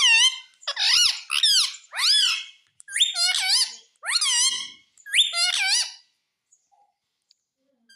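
Pet parrot calling: a run of about seven short, high-pitched, squeaky calls that each rise and fall in pitch, then a pause of about two seconds.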